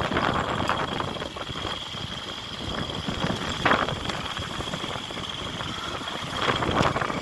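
Steady vehicle running noise with a constant high whine, broken twice by brief distant shouts.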